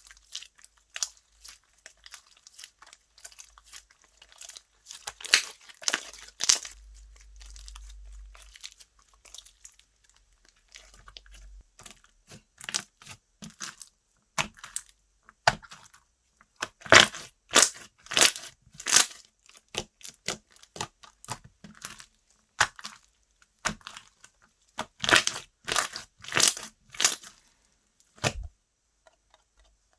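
Slime squeezed, poked and stretched by hand, giving irregular sticky pops and crackles, with louder flurries of rapid pops at several points.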